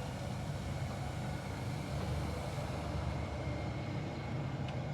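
A motor or engine running steadily with a low, even rumble.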